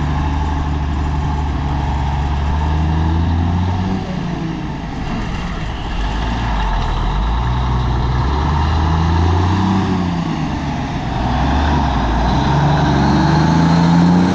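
Heavy truck's diesel engine running under way, its pitch falling and rising several times as it changes speed, climbing steadily near the end.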